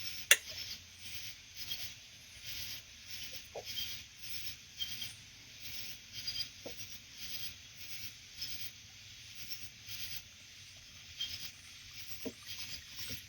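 Night insects chirping in a steady chorus, pulsing about twice a second, with one sharp click near the start.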